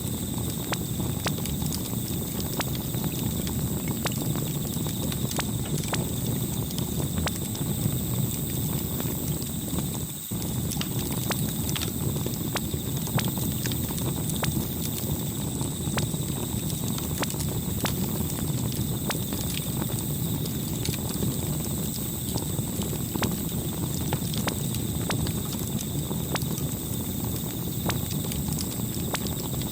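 Campfire crackling: irregular sharp pops and snaps over a steady low rumble of burning, with a brief dip about ten seconds in.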